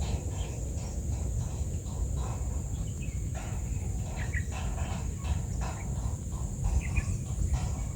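Outdoor summer ambience: a steady high-pitched insect drone runs on without a break, with a few short bird chirps, about four and seven seconds in, over a constant low rumble.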